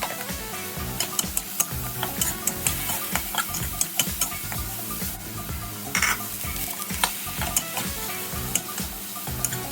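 Food sizzling while it is stir-fried in a hot pan, a utensil clicking and scraping against the pan many times.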